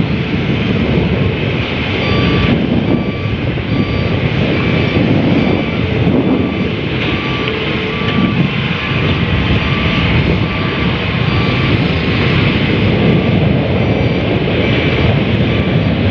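Heavy machinery running with a steady engine rumble, while a warning alarm beeps about twice a second, as a long-arm excavator's travel alarm does.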